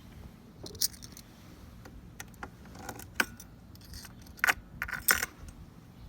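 A bunch of keys jangling: a series of short clinks and jingles, loudest in a cluster about four and a half to five seconds in, over a faint low rumble.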